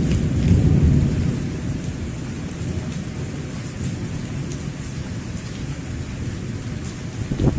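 Heavy rain falling, with low rumbles of thunder, loudest in the first second or so and again near the end.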